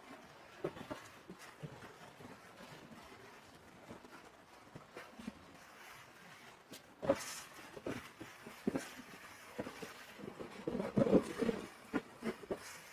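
Wind buffeting and rubbing on the microphone of a camera carried in a motorcycle rider's backpack: irregular muffled knocks and rustles over a faint hiss, busiest about ten to eleven seconds in.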